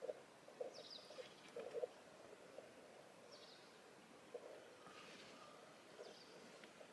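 Near-silent countryside with a few faint, short bird chirps that fall in pitch, about three in all, over scattered soft taps and rustles.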